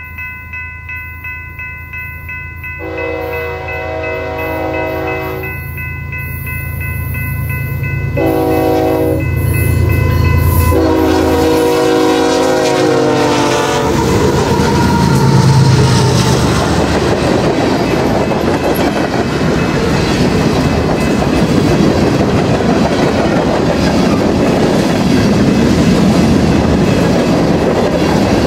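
Freight train headed by GE ES44C4 diesel locomotives approaching and passing. Engine rumble and a steadily ringing bell sound under the horn, which blows a long blast, a short one and a final long one that drops in pitch as the lead locomotive goes by. After that comes the steady rumble and clickety-clack of the cars rolling past.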